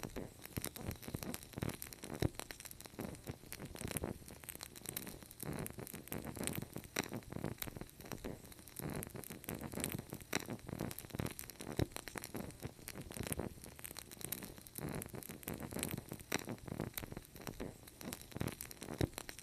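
Fireplace fire crackling: dense, irregular pops and snaps over a soft, steady hiss.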